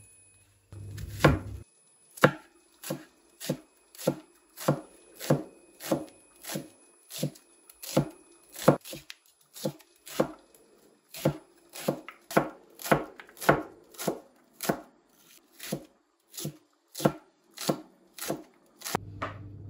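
Knife chopping on a cutting board: a steady run of sharp knocks, a little under two a second.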